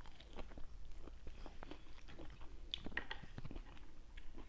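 Close-up sounds of a person biting and chewing juicy fruit: a run of small wet clicks and smacks at an uneven pace.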